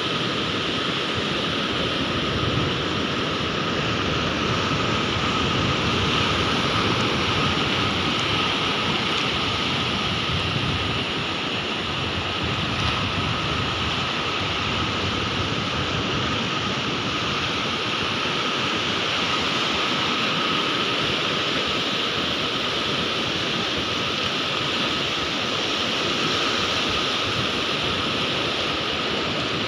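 Sea waves washing onto the shore in a steady, continuous rush of surf, swelling and easing only slowly.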